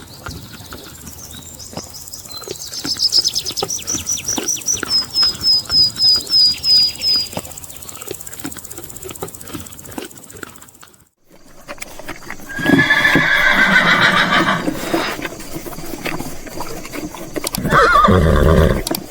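Horse neighing twice in the second half. The first half holds a patter of hoof clip-clops and a quick run of high chirps.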